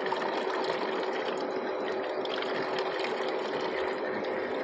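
Water running steadily from a filtered water cooler's tap, over a steady hum.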